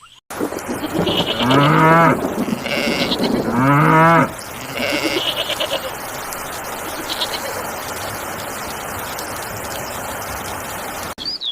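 Two long, quavering bleats from a sheep or goat-like animal, the second a couple of seconds after the first, over a steady hiss with a few short high chirps.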